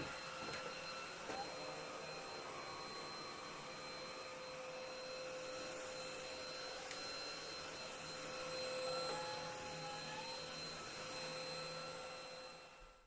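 Vacuum cleaner running with a steady whine, switched off near the end and winding down.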